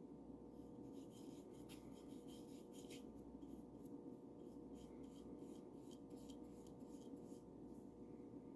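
Paint brush bristles brushing paint onto a bird house: faint, quick scratchy strokes in runs, over a steady low hum.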